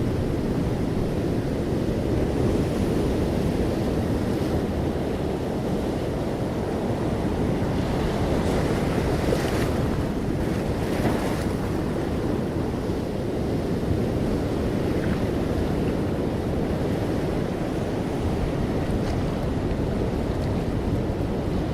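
Sea waves washing steadily onto a shore, a continuous low rushing surf with a couple of brief brighter hissing swells around the middle.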